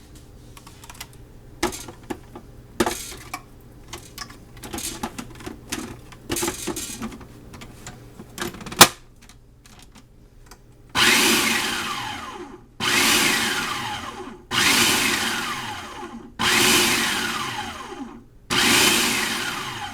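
Food processor pulsed five times on hummus ingredients, each short burst starting abruptly and winding down with a falling whine. Before the pulses come scattered clicks and knocks, with one sharp click just before.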